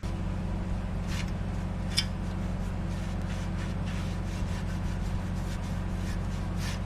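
A machine running with a steady low hum, cutting in abruptly and cutting off abruptly, with a couple of light clicks over it.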